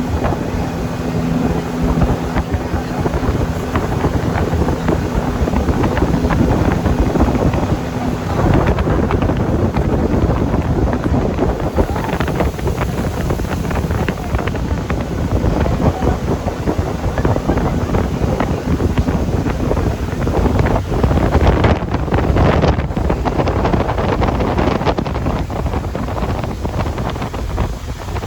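Boat motor running with strong wind buffeting the microphone as the boat travels. A steady low engine hum for the first several seconds gives way to a dense, continuous wind roar.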